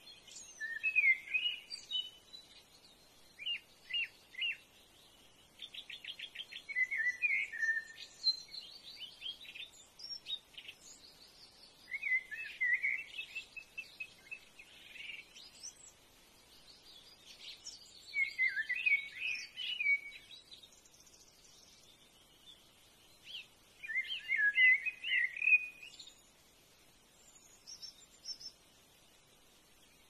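Wild birds calling in short bursts of twittering chirps every few seconds, with a fast rattling trill about six seconds in.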